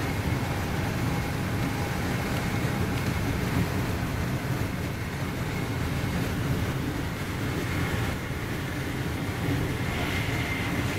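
Steady low rumble of a High Speed Train with Mark 3 coaches running at speed, heard from inside the coach.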